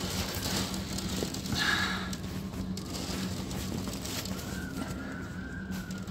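Gale-force storm wind blowing, a steady rushing noise with a low hum under it. A brief higher-pitched sound stands out about one and a half seconds in, and a faint wavering tone comes in later.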